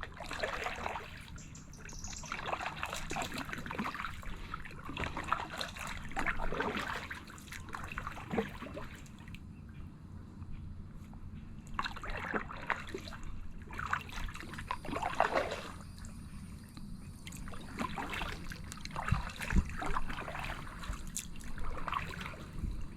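Kayak paddle strokes in calm water: the blades dip, splash and drip, one stroke after another every couple of seconds.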